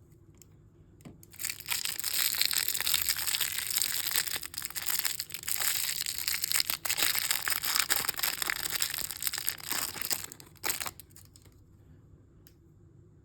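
Crinkly plastic packaging of a toy mystery bag being crumpled and torn by hand: a dense crackling that starts about a second and a half in and stops about eleven seconds in.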